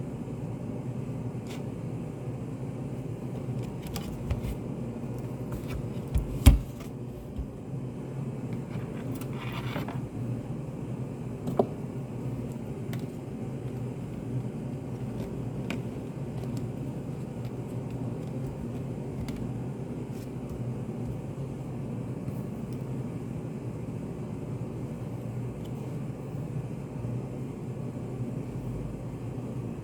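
Study cafe room ambience: a steady low hum and rumble, with scattered small clicks and knocks and one louder thump about six seconds in.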